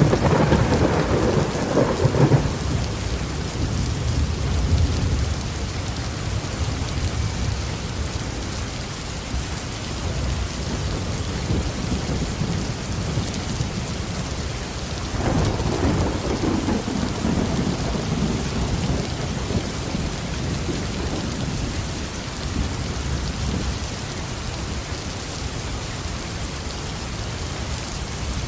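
Heavy rain falling steadily on a roof, with a thunder crack and rumble at the start and a second rolling rumble of thunder about halfway through.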